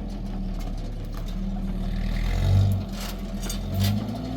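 A motor vehicle's engine running steadily, swelling louder briefly twice, about two and a half seconds in and again near the end.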